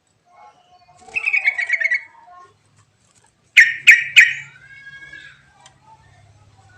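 Yellow-vented bulbul (trucuk) calling. A short bubbly trill comes about a second in, then three sharp, loud notes in quick succession around the middle, followed by a brief whistled phrase.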